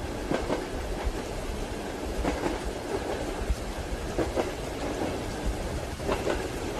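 Train wheels clacking over rail joints in pairs of knocks about every two seconds, over a steady rumble and the hiss of rain.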